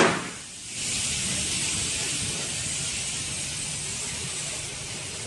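Air hissing steadily out of a truck tire punctured by a gunshot, starting about a second in. The tail of the shot fades right at the start.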